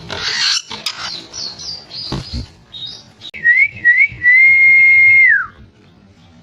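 Aviary birds chirping briefly, then a loud clear whistle that wavers twice, holds one steady note for about a second and slides down at the end.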